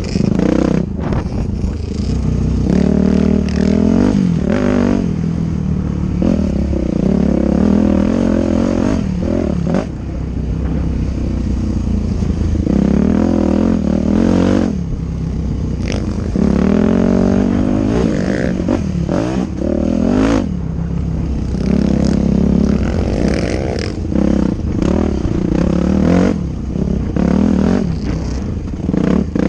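Dirt bike engine revving up and easing off again and again as it is ridden, its pitch climbing and dropping back every few seconds.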